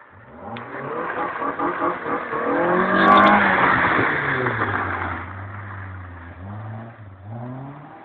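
Proton Compact car engine revving hard. The revs climb to a peak about three seconds in, then drop back and settle to a low steady note, with a short rev blip near the end.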